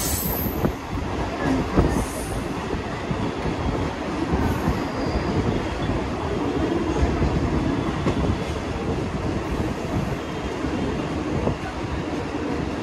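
Mumbai suburban local train (an electric multiple unit) running on the track: a steady rumble of wheels and carriages. A brief high wheel squeal fades out within the first second.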